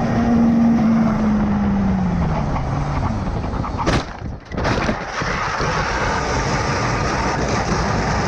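Motorcycle engine note dropping in pitch as the bike slows, then two hard crash impacts about a second apart, followed by a steady rushing noise of wind and road.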